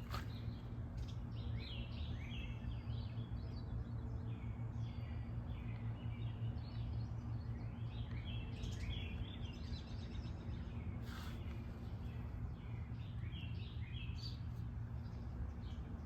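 Birds chirping in quick repeated calls over a steady low hum.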